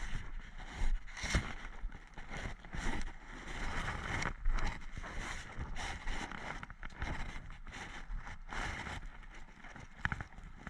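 Irregular rustling, scuffing and handling bumps, with wind buffeting the microphone of an action camera worn by a player moving on foot through woodland.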